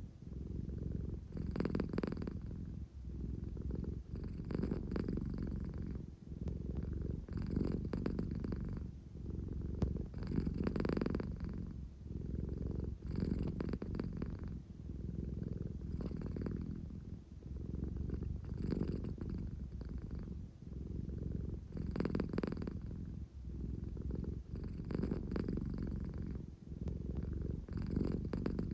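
American Shorthair cat purring continuously, the purr swelling and easing with each breath about every three seconds. It is the drowsy purr of a sleepy cat wanting affection.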